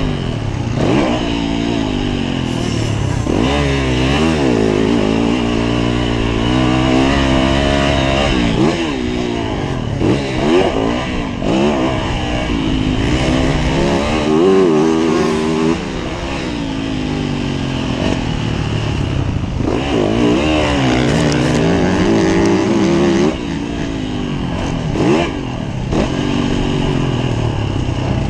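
Yamaha YZ450F motocross bike's single-cylinder four-stroke engine being ridden hard, its pitch repeatedly climbing under throttle and dropping back as the rider shifts and rolls off for corners and jumps, heard onboard.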